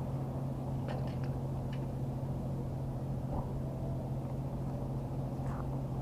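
Steady low hum of an idling engine, with a few faint light clicks about a second in and again near the end.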